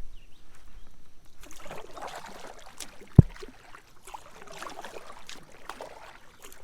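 Kayak paddle strokes dipping and splashing in creek water in two spells, with one sharp knock, the loudest sound, about three seconds in.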